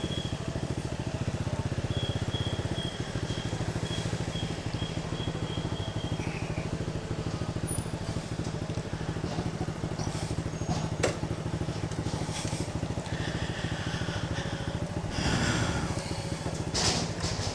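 Motorcycle engine running steadily while the bike is ridden, a low even drone. A high-pitched beeping sounds in short repeated pulses for a few seconds early on, and a sharp click comes about eleven seconds in.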